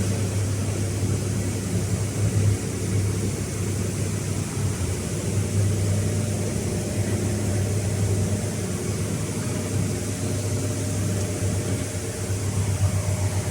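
Steady low mechanical drone at a constant pitch, like a running engine or machine, with a hiss over it.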